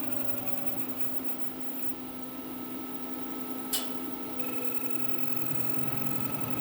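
CNC mill running an engraving pass with a spring-loaded carbide engraving tool: a steady machine whine made of several held tones, with a single sharp tick a little under four seconds in.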